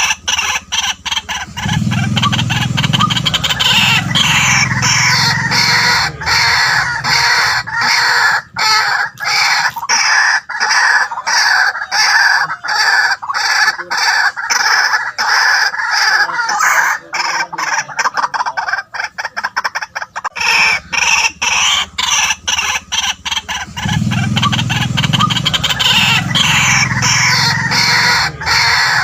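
White-breasted waterhen calling: a loud, unbroken string of rapid, harsh repeated notes, with a deeper-pitched stretch about two seconds in and again near the end.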